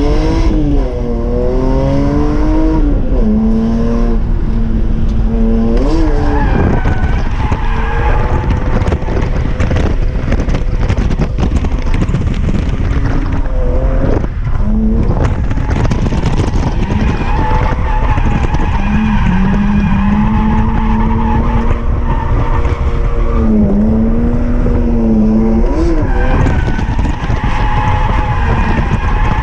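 BMW E46 M3 drift car's inline-six engine held at high revs through a drift, its pitch climbing sharply at the start, holding level for stretches and dipping briefly several times, with tyres skidding and squealing.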